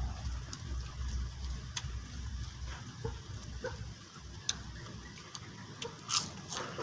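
Close-miked eating sounds: a person chewing with small mouth clicks and smacks, and one sharper click near the end, over a low background rumble that fades about four seconds in.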